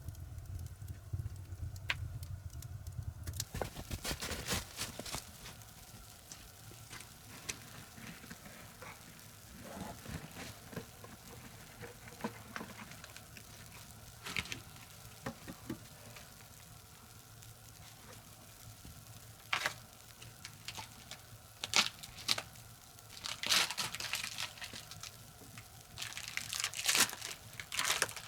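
Irregular crackling and rustling, with a low steady hum during the first few seconds.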